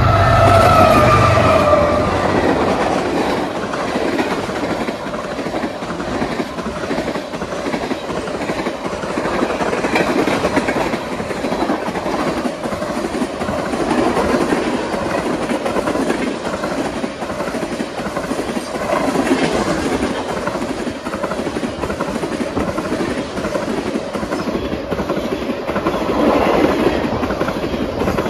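A freight train rolling past, its wheels clattering steadily over the rail joints. In the first two seconds a tone falls slightly in pitch and a low engine drone fades away.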